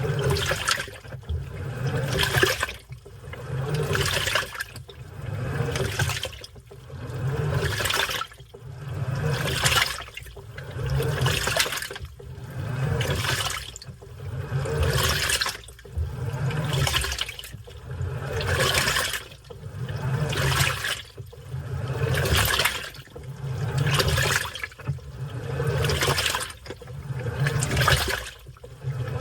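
Washing machine running its wash cycle: water churning and sloshing in regular surges about every two seconds, each with a low motor hum.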